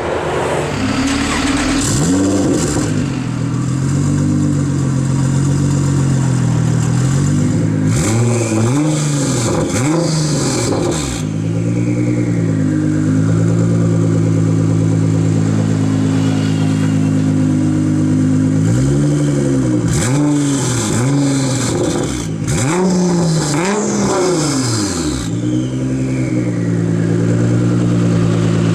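Straight-piped Nissan GT-R R35's twin-turbo V6 idling, blipped repeatedly: quick rises and falls in revs in three bursts, with sharp cracks among them, settling back to a steady idle in between.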